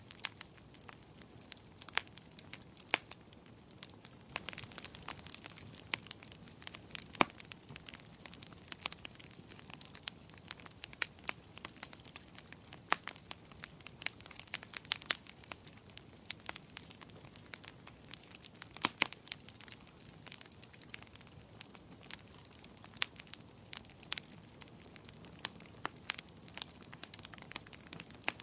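Wood fire crackling: irregular sharp pops and snaps, a few much louder than the rest, over a soft steady hiss of burning.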